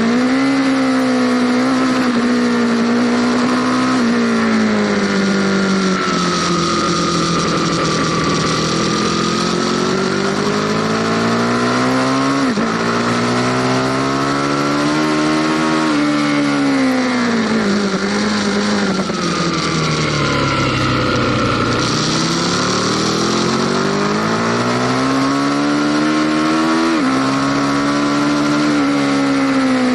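Aprilia Tuono Factory motorcycle engine under way, its pitch climbing under acceleration and dropping suddenly at each of several upshifts. About two-thirds through the revs fall away in a long slowdown, then climb again. Wind noise runs underneath.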